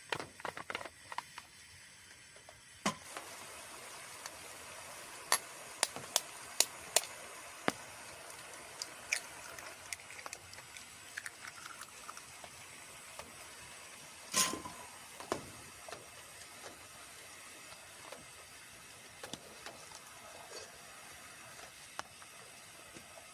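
Steady rain hiss that gets stronger about three seconds in, with scattered sharp taps and clicks and one louder knock about fourteen seconds in.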